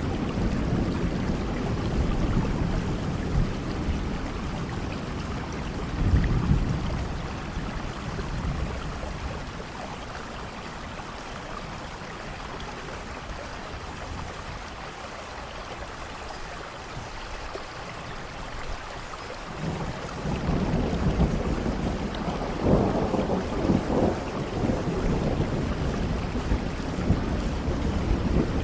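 Steady rain with rolling thunder: low rumbles at the start and again about six seconds in, easing to mostly rain through the middle, then a longer rumble of thunder building from about twenty seconds in.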